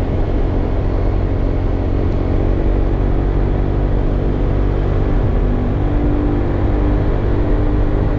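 Honda PCX scooter's single-cylinder engine idling steadily through an aftermarket muffler.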